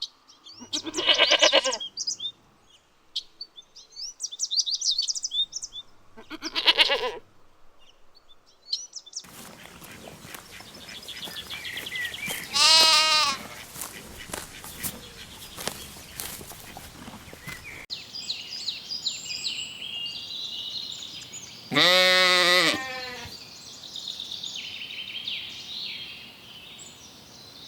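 Sheep bleating four separate times, each bleat a wavering call, the loudest near the start and about two-thirds of the way through. Birds chirp faintly between the bleats.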